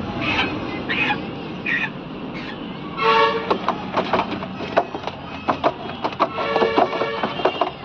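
Street noise: a vehicle horn tooting about three seconds in and again near the end, among voices and many short sharp clicks or knocks.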